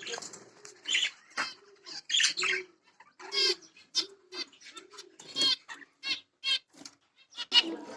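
Lovebirds chirping: a string of short, sharp calls, about two a second, each with a low arched note beneath it.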